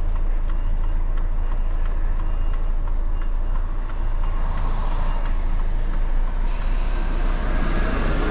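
Articulated lorry's diesel engine running steadily at low revs while the lorry reverses, heard from inside the cab as a deep, even rumble.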